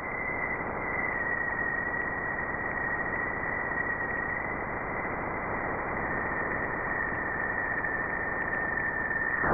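Spacecraft radio and plasma wave recording turned into sound: a steady hiss with one thin high tone running through it, drifting slightly lower in pitch.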